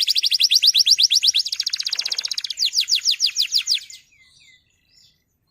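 Male domestic canary singing rapid trills of repeated high, downward-sweeping notes, changing pace twice before stopping about four seconds in.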